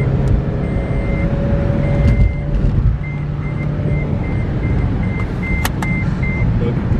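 A car's parking sensor beeps at one high pitch. The beeps start long and spaced out, then turn short and quick after about three seconds as the car backs closer to an obstacle. Under it runs the low hum of the engine and cabin, and two sharp clicks come about two-thirds of the way through.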